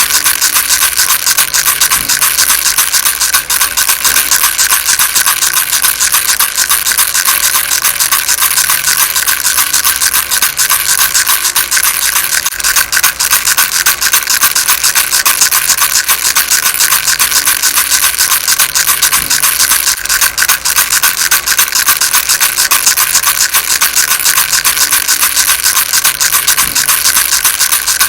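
Baby rattle shaken without pause: a steady, dense stream of rapid small clicks and rattling.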